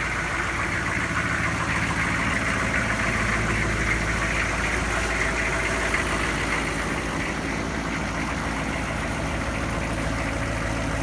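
1998 GMC K2500's 6.5-litre turbo diesel V8 idling steadily.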